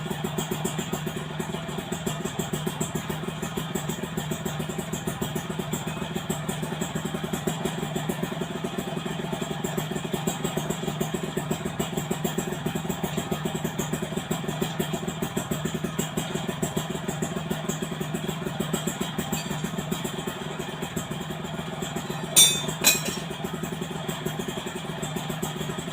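Yamaha F1ZR two-stroke motorcycle idling steadily through an aftermarket AHM exhaust, a fast even putter. Two short sharp clicks about 22 seconds in.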